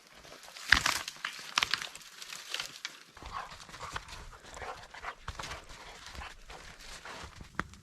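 A dog close by, with a run of irregular sharp crunches and clicks, the loudest about a second in.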